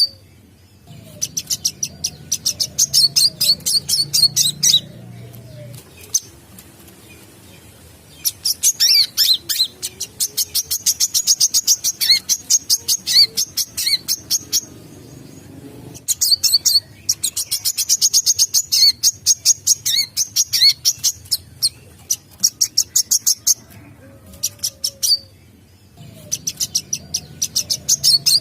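Brown-throated sunbird singing. Its song comes in bouts of rapid, high, repeated chirps, each bout a few seconds long, with short pauses between them.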